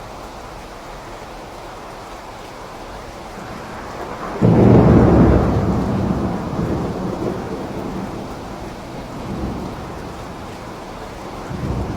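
Steady rain, with a sudden loud thunderclap about four and a half seconds in that fades over several seconds, and fainter rolls of thunder near the end.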